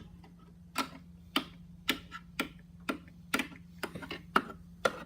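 Footsteps going down a staircase: even, sharp steps about two a second, over a faint steady hum.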